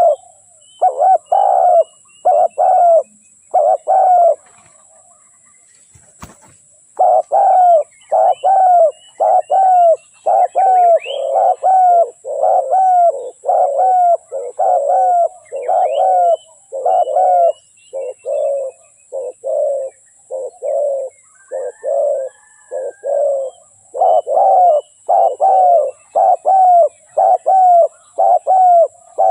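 Spotted dove cooing over and over in a steady run of short, low coos, about two a second, broken by a pause of a couple of seconds a few seconds in, during which a single sharp click is heard. Faint, thin, high chirps of smaller birds sound behind the coos.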